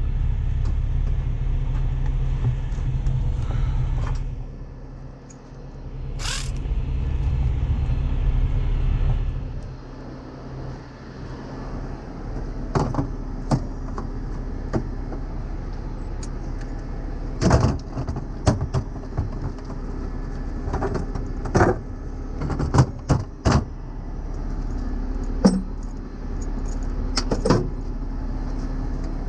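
Heavy diesel truck engine running with a deep rumble that drops away about four seconds in, returns, and fades near the ten-second mark. After that comes a string of sharp metal clanks and rattles from tow chains and rigging being handled over a low engine hum.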